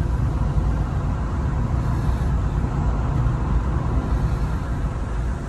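Steady low rumble of a vehicle being driven, with engine and tyre noise.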